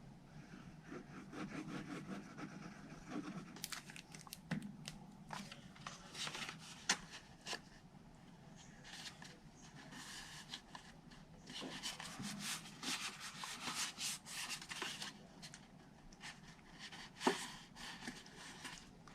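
Cardstock being handled, pressed and smoothed together by hand: on-and-off rustling and rubbing of paper, with a couple of sharp taps.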